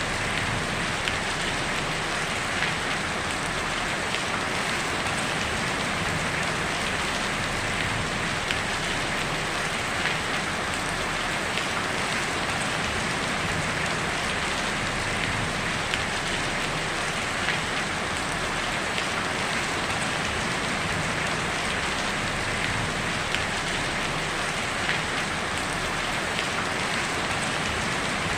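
Heavy rain falling steadily on a tin roof, a dense, even patter with scattered louder drop ticks.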